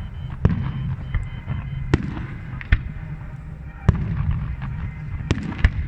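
Fireworks display: aerial shells bursting in sharp bangs about once a second, six in all, two of them close together near the end, over a steady low rumble.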